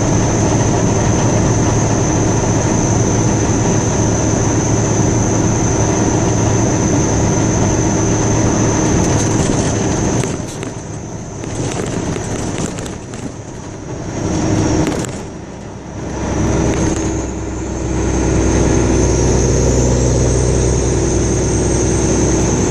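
A car driving on a road, heard from inside the moving vehicle: steady tyre and engine noise. It grows quieter for several seconds about ten seconds in, then comes back with a stronger low rumble near the end.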